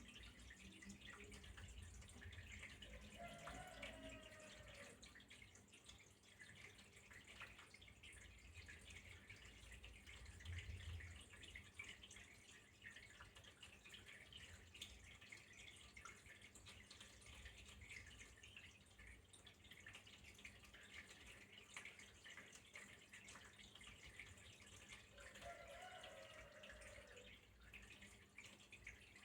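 Faint flowing water with a steady patter of drips, like a tap trickling into a basin.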